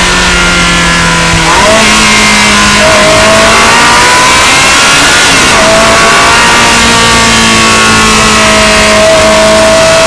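Ferrari 360 Modena's V8 with a Supersport exhaust running loud under way, heard from the engine bay. Its pitch holds for stretches and shifts several times.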